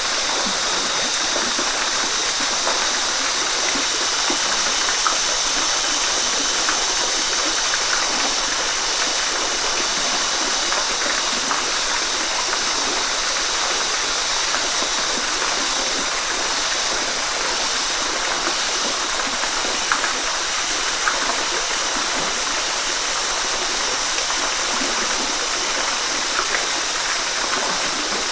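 Waterfall: water pouring and splashing in a steady rush, with small splashes flicking through it.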